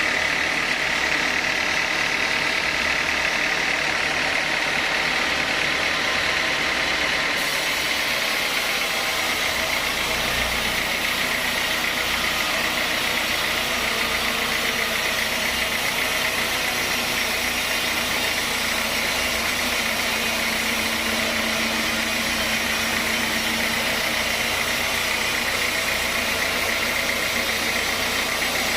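Sawmill machinery running steadily, a continuous machine hum with a high whine in the first few seconds; the sound shifts about seven to ten seconds in and settles into a lower steady hum.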